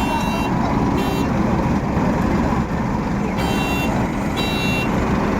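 Heavy farm-machine engine running under load, with an electronic warning beeper sounding half-second beeps about once a second, pausing for about two seconds in the middle before resuming.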